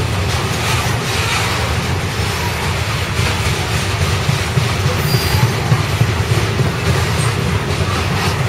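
CSX coal train rolling past: a steady heavy rumble of steel wheels on the rails, with faint clicking over rail joints.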